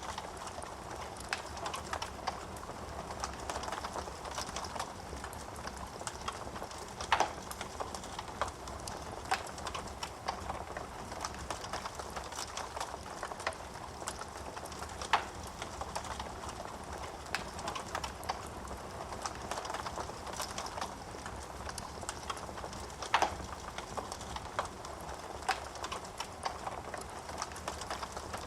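Wood fire crackling in a fireplace: a steady soft hiss of burning flames, many small snaps of burning wood, and three louder pops spread evenly through.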